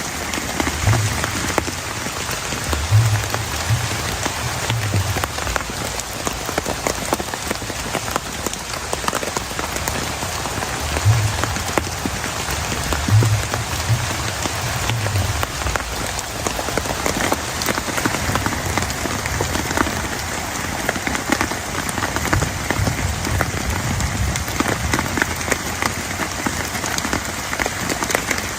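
Heavy rain falling steadily, countless drops pattering on a surface, with a few short spells of low rumbling.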